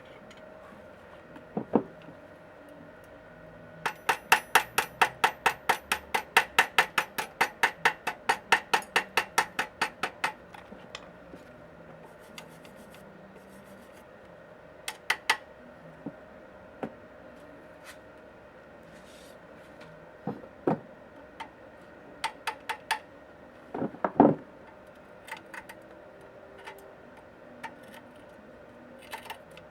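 A rapid, even run of hammer taps on metal, about four a second for some six seconds, followed by scattered single knocks and clinks of tools on metal.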